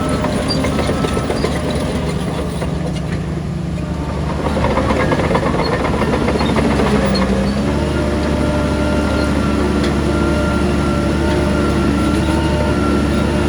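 Crawler bulldozer's diesel engine running under load, with steady rapid clatter from its steel tracks; the engine grows louder about four and a half seconds in.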